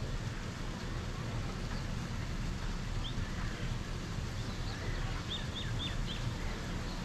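Small birds chirping: one short chirp about three seconds in, then a quick run of four about five to six seconds in, over a steady low outdoor rumble.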